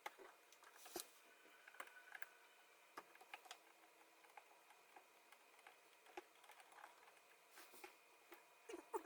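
Near silence with faint, scattered clicks and light taps, a little stronger about a second in and near the end.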